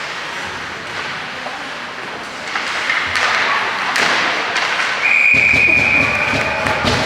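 Ice hockey play in an arena: thuds and knocks of sticks and puck, then a referee's whistle blown once, a steady high note held for about a second and a half starting about five seconds in.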